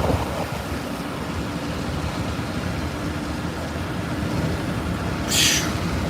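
Steady road and engine noise heard from inside a moving car, with a short burst of hiss about five seconds in.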